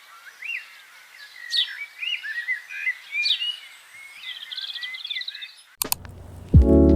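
Birds singing outdoors: short whistled chirps and a quick high trill over faint background noise. Music comes back in near the end.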